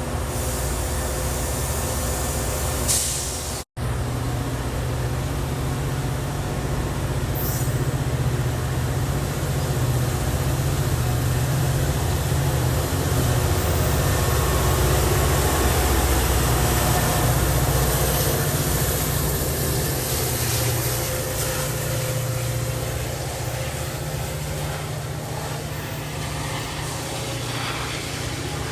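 Train rumbling past: a steady low rumble of locomotives and rolling railcars that builds to its loudest about halfway through, with a short hiss and a brief dropout about four seconds in.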